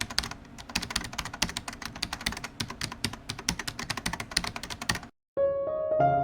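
Rapid, irregular clicks, several a second, for about five seconds, then a brief dead silence, and soft piano music starts near the end.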